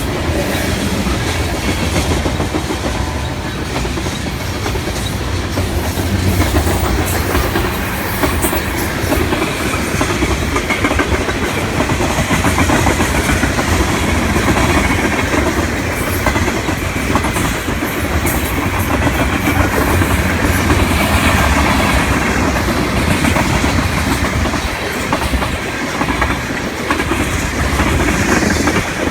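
Freight train of tank cars rolling past, wheels clacking over the rail joints in a steady rumble.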